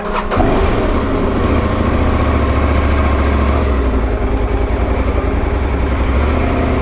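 Motorcycle engine running steadily, after a short knock just at the start.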